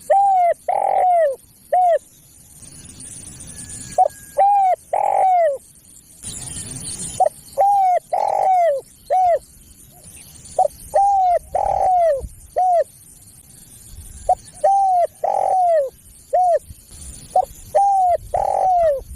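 Spotted dove singing its cooing song: a phrase of a few coos, with a long falling note in the middle, repeated six times at about three-second intervals.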